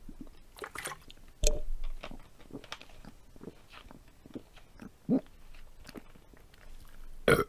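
Mouth sounds of someone chewing close to the microphone: scattered small clicks and crunches, with two louder knocks, about a second and a half in and near the end.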